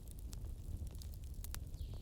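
Fireplace fire crackling: irregular sharp pops and snaps over a steady low rumble of the flames, with the loudest snap about a second and a half in.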